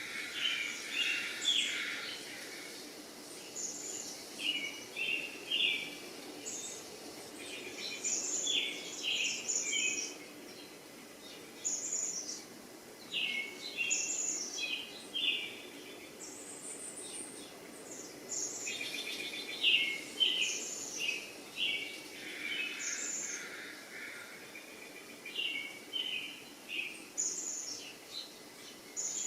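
Birds singing: short chirping phrases repeated every second or two over a faint steady background noise.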